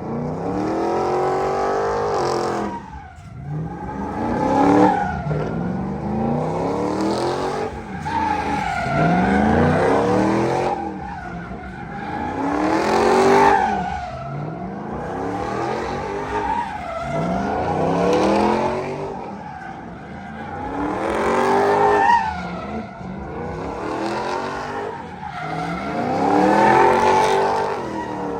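Drift vehicle's engine revving hard in repeated pulls, rising and falling in pitch about every four seconds, with tyres spinning and skidding under a steady hiss.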